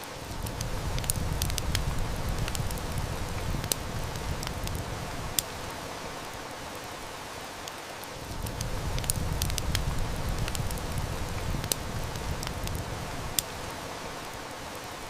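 Heavy rain falling steadily, mixed with a wood fire crackling in scattered sharp snaps. A low rumble swells in twice, for about five seconds each time.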